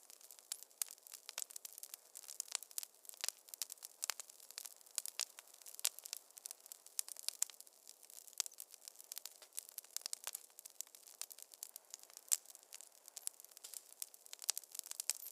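Wood fire in a fireplace crackling: irregular sharp pops and snaps, several a second, over a soft hiss.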